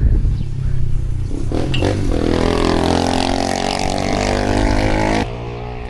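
A motorbike engine running, its pitch dipping slightly, over a steady hiss; it cuts off suddenly about five seconds in.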